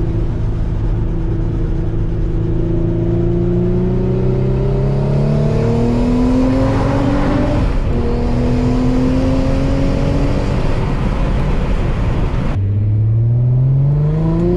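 Twin-turbocharged 3.5-litre VQ35DE V6 of an Infiniti G35 coupe pulling under acceleration, heard from inside the cabin, its pitch climbing steadily with a brief break about eight seconds in. Near the end a new pull starts from lower revs and rises faster.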